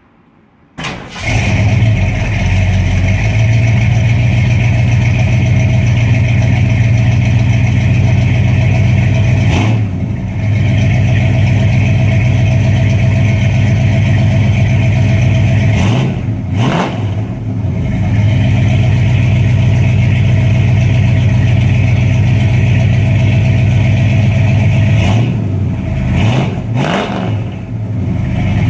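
Freshly rebuilt Ford FE 390 V8 in a 1973 F100 starting about a second in, then running with a deep, loud exhaust note through Flowmaster 40 Series mufflers. The throttle is blipped a few times, briefly later in the clip and twice near the end.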